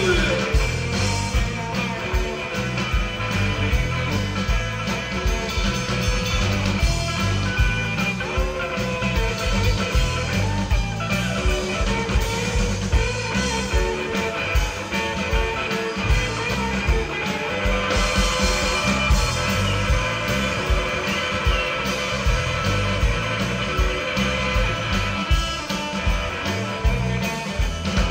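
Rock trio playing one of its own songs live: electric guitar over bass and a steady drum beat.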